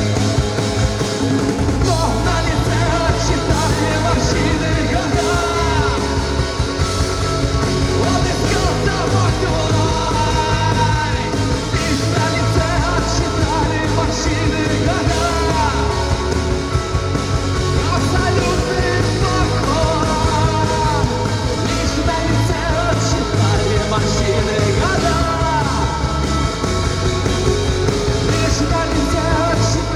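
Rock band playing a song live, with singing over the band.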